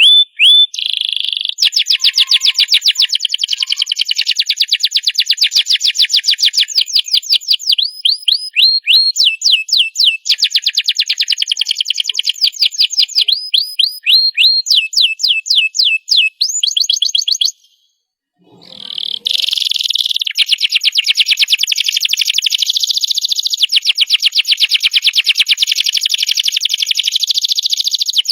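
Domestic canary singing long, rapid trills and runs of repeated notes, with a short break about two-thirds of the way through before the song picks up again.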